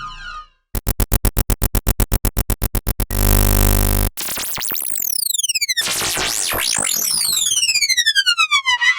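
A run of synthesized electronic sound effects: a rapid buzzing pulse train at about nine pulses a second, then a one-second burst of hiss, then a series of overlapping electronic sweeps gliding down and up in pitch.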